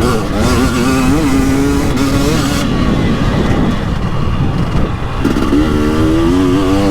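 2021 KTM 300XCW Erzberg's fuel-injected (TPI) two-stroke single-cylinder engine running under way on the trail. Its note holds fairly steady, sags and drops about three seconds in, then climbs again as the throttle comes back on.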